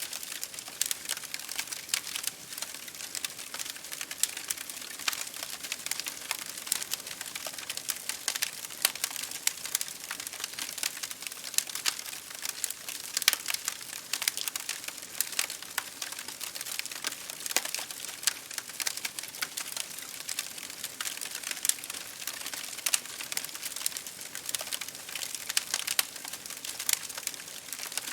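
Wood fire crackling in a fireplace, a dense irregular run of small sharp pops, over the soft patter of rain on a window pane.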